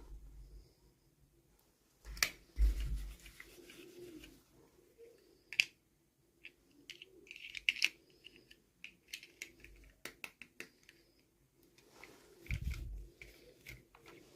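Toy packaging being handled and opened by hand: scattered sharp clicks and short rustles, with low thumps about two seconds in and again near the end.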